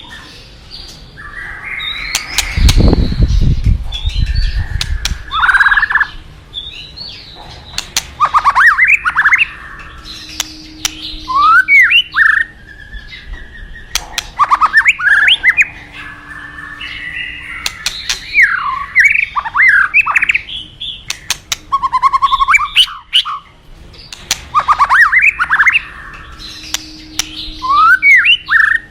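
White-rumped shama singing loud, varied phrases of rising and falling whistles and rattles, repeated every couple of seconds and mixed with sharp clicks. A faint steady rush lies beneath, and a low rumble comes about three seconds in.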